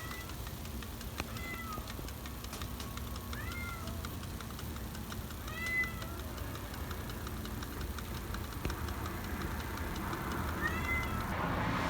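A domestic cat giving a string of short, rising-and-falling meows, about five in all, spaced a second or more apart, the loudest about halfway through. A low steady hum runs underneath.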